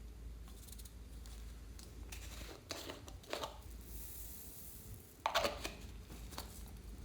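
Hands working clear slime and the small things being mixed into it: a few short crackling, squishing handling noises, the loudest about five seconds in.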